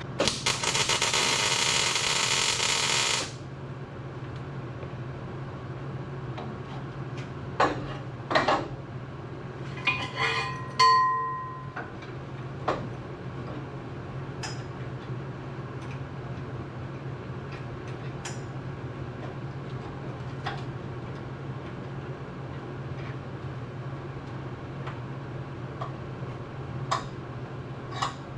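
Angle grinder run in one loud burst of about three seconds, then steel pieces clanking, one knock ringing briefly, over a steady low hum.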